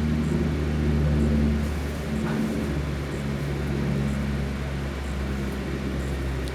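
Three 20-inch box fans running on high speed: a steady low hum with an even rush of air.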